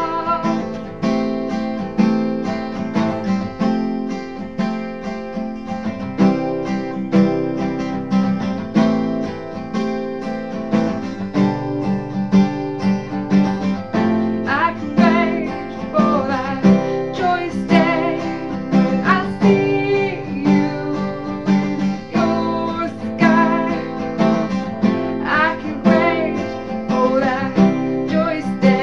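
Acoustic guitar strummed steadily, with a woman singing along in stretches over the chords.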